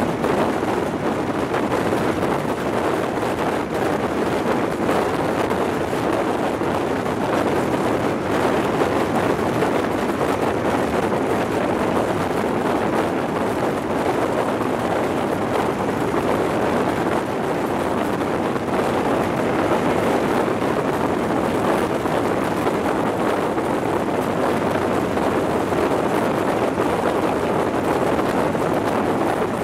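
High Speed Train (HST) running at speed, heard from a microphone held out of a coach window: a steady, even rush of wind over the microphone mixed with the train's running noise on the rails.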